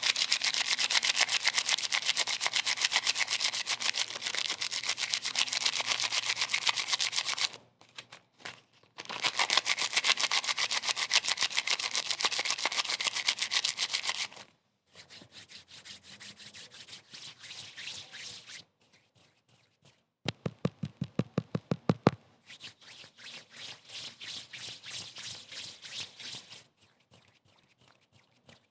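Rapid, scratchy rubbing strokes, many a second, in runs that stop and start again. A quieter, lower-pitched run of strokes comes about two-thirds of the way through.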